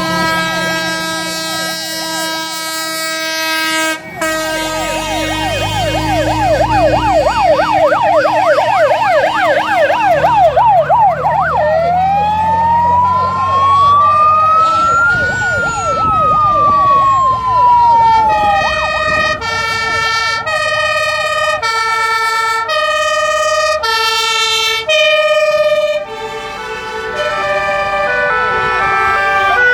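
Fire engine sirens from a passing column of fire trucks, several sounding at once over the rumble of truck engines. A fast yelp runs for several seconds, then a slow wail rises and falls, then a two-tone hi-lo siren switches between its high and low notes about twice a second.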